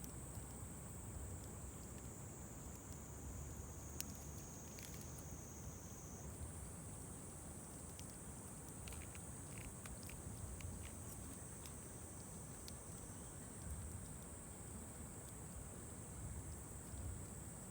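Wood campfire crackling softly, with scattered sharp pops, the clearest about four seconds in and a run of them around nine to ten seconds. Under it runs a steady high-pitched insect chorus that shifts pitch slightly about six seconds in, over a low rumble.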